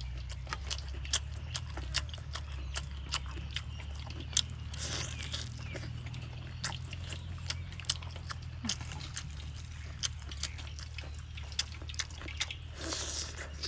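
Close-up mouth sounds of someone chewing crispy fried fish rolls with vegetables: irregular wet crunches and clicks, with a fresh bite taken near the end, over a steady low hum.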